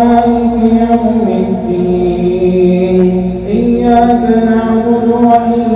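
A man's voice in melodic Quranic recitation (tajweed), drawing out long held notes with no break for breath; the pitch steps down about a second in and climbs back up a little past halfway.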